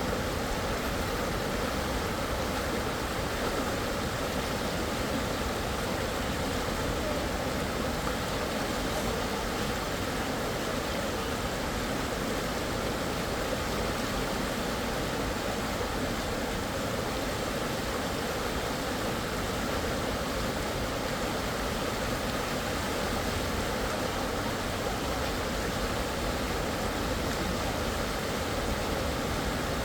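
Fast-flowing river water rushing steadily over rapids, an even hiss with no breaks.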